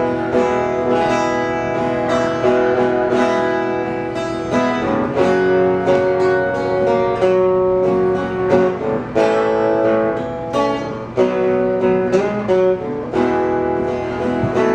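Acoustic guitar played as an instrumental passage between sung verses, with chords picked and strummed in a steady rhythm.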